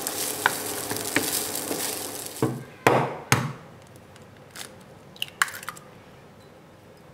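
Food sizzling in a frying pan, with light taps of a spatula, then a couple of loud clatters of the pan or utensil about three seconds in, after which the sizzling stops and only a few faint clicks and handling noises remain.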